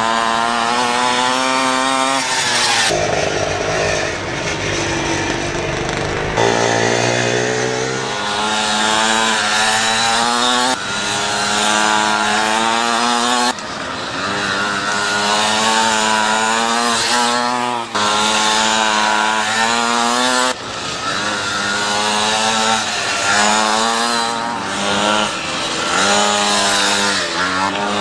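Racing pocket bike engines at high revs, the pitch climbing repeatedly and dropping off sharply every few seconds as the throttle is opened and closed, with a second bike's engine overlapping at times.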